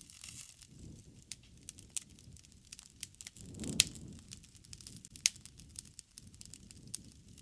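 Wood fire crackling: a low rumble of flames under frequent sharp pops and snaps of burning wood. The loudest pop comes about halfway through, on a brief swell of the rumble, with another strong snap a second and a half later.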